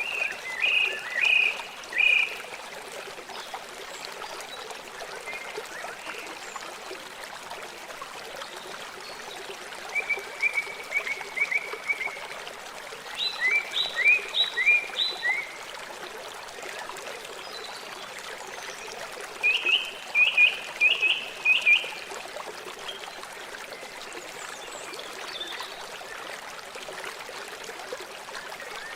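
River water flowing steadily, with four short bouts of quick repeated bird chirps spread through it.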